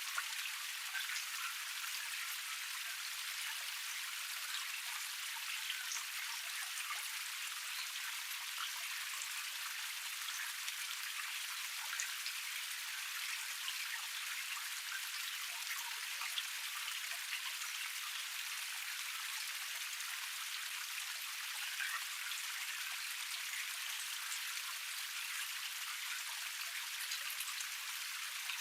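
Small forest cascade: water splashing steadily over a low tier, a constant hiss with many small drips and splashes scattered through it and little low rumble.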